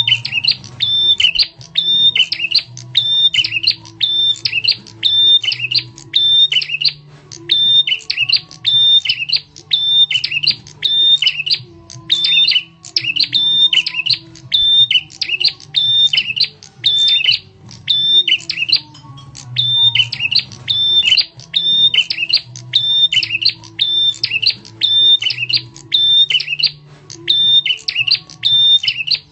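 Prenjak tamu (a prinia) lure call: a loud, sharp chirping note repeated rapidly over and over, in runs broken by brief pauses every few seconds. A faint low hum sits underneath.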